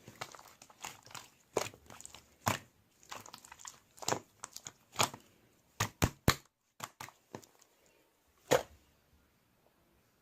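Slime being squished and pulled by hand, making irregular sticky pops and crackles. They are dense at first, thin out after about seven seconds and end with one last loud pop.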